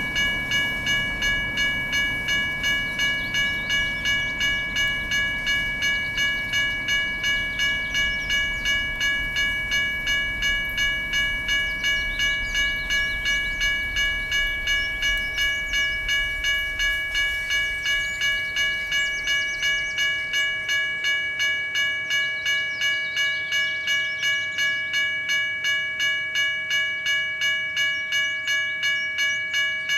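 Railroad grade-crossing warning bell ringing in steady, even strokes about twice a second, over the low rumble of a passing freight train that fades about two-thirds of the way through.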